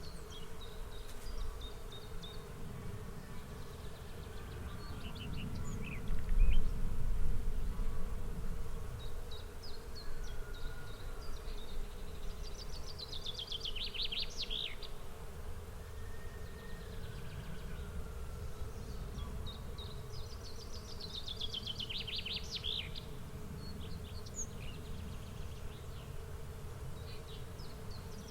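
Outdoor nature ambience: a steady insect buzz, with a songbird repeating a descending trilled phrase about every eight seconds among scattered chirps. A low rumble swells loudly about six seconds in and fades over the next few seconds.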